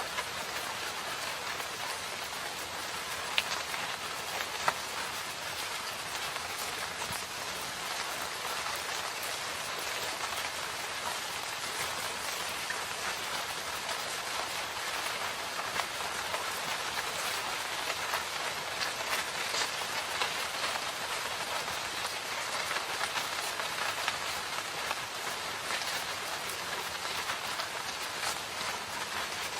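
Steady rain falling in a forest, an even patter of raindrops with a few sharper drop ticks a few seconds in.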